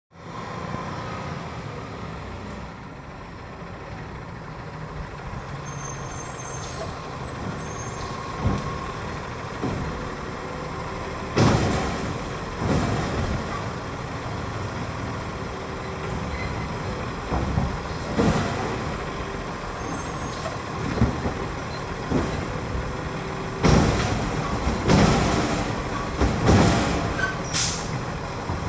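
Automated side-loader garbage truck, a Labrie Automizer, running with its engine steady while the arm slams carts against the hopper: a series of loud bangs, first single, then coming in clusters through the second half. A short air-brake hiss near the end.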